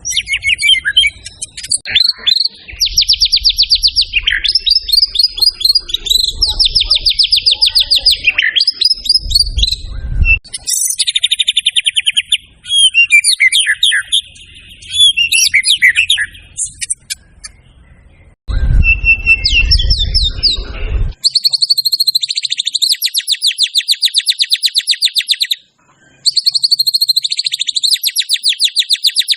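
White-rumped shama (murai batu) in full, loud song, running through a varied repertoire of fast trills, rattles and chattering phrases. It breaks off briefly twice, about two-thirds of the way through and again near the end.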